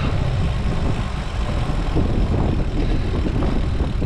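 Steady wind rumble on a cycling action camera's microphone, mixed with road noise from the moving bike.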